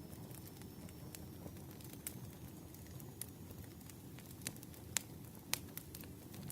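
Campfire burning: a low steady rumble of flames with irregular sharp crackles and pops, the loudest about five seconds in.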